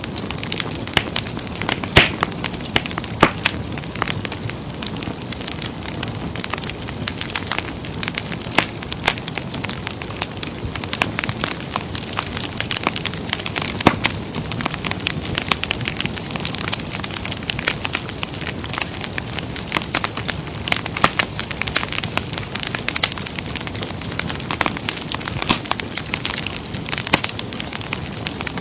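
Wood fire crackling in a fireplace: a steady soft hiss with frequent sharp pops and snaps, a few louder than the rest.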